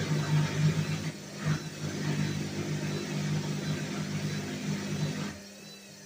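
Whirlpool washing machine running with a steady motor hum and whir, which drops off abruptly a little after five seconds in, leaving a quieter hum.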